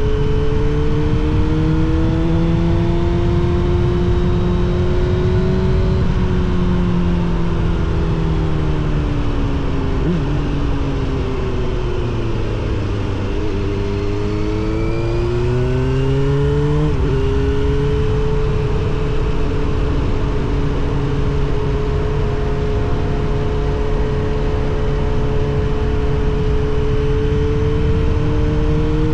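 Suzuki GSX-R750 SRAD inline-four running through a Yoshimura R77 exhaust at riding speed, with a steady rush of wind. The revs climb gently, ease off to a low about twelve seconds in, and pick up again. A quick gear change about seventeen seconds in drops the pitch suddenly, then the engine holds a steady cruise.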